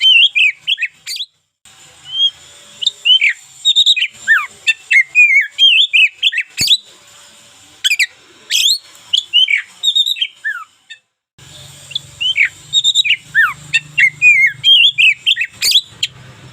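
Oriental magpie-robin (local kacer) singing a fast, varied song of short whistled notes that sweep up and down, with brief breaks about a second in and again about eleven seconds in.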